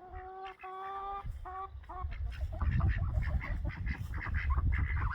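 A farmyard bird honks four or five times in the first two seconds, short calls each held at one pitch. A low rushing noise with quick clicks and rattles then takes over.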